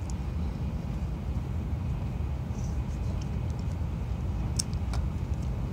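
Shinkansen passenger cabin noise: the train running at speed, a steady low rumble with an even hiss above it. Two light clicks about four and a half and five seconds in.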